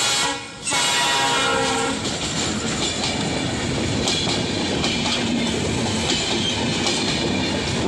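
Horn of a Bangladesh Railway class 6500 (BED-30) diesel-electric locomotive passing close at speed: a short blast, then a longer one held for about a second and a half. The passenger coaches then rush by, their wheels clattering over the rail joints.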